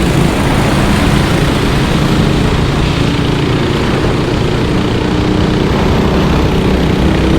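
Racing kart engines running out on the track: a steady loud drone with a few engine tones at different pitches that shift as the karts lap.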